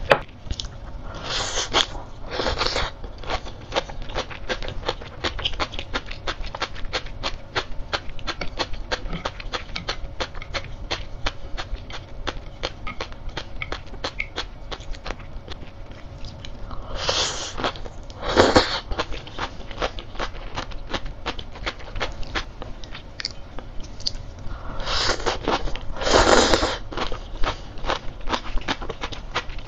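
Close-miked chewing of crisp sea grapes: dense, rapid crunching and popping as the little beads burst in the mouth. Three louder noisy bursts stand out, near the start, about two-thirds through and near the end.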